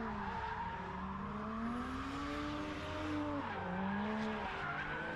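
A car drifting: the engine note rises and falls under a hissing tyre squeal. The sound starts and cuts off abruptly.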